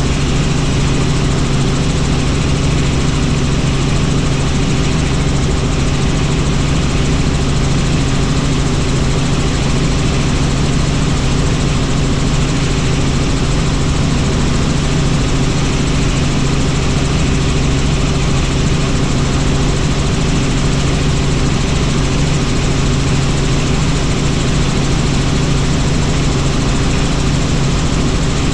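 Helicopter in flight: the rotor and turbine engine run at a constant loud, steady drone with a low hum and a broad rushing noise.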